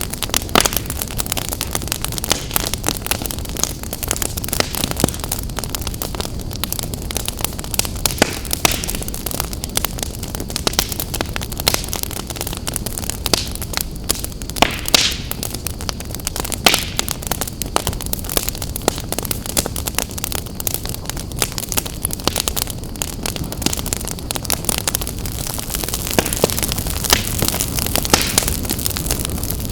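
Wood fire burning in a fireplace: constant crackling with frequent sharp pops over a steady hiss, a few pops standing out louder.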